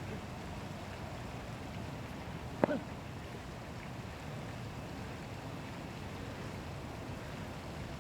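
Steady background hiss of ambient noise, with a single sharp click about two and a half seconds in.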